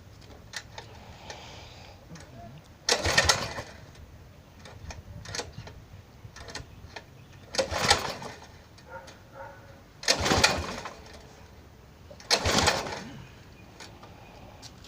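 Predator 212cc small engine pulled over on its recoil starter four times, each pull a short burst of cranking that does not catch into running. The engine will not start; the owners put it down to a choke that isn't closing all the way.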